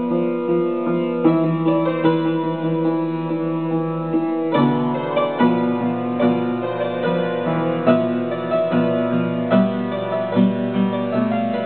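Solo piano playing slow, sustained chords, with new notes and chords struck roughly once a second over the ringing ones.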